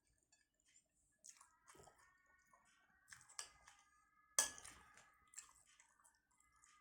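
Close-miked mouth sounds of someone chewing siomay and crispy fried batagor: soft, wet chewing with scattered crunchy bites. The loudest crunch comes a little past the middle.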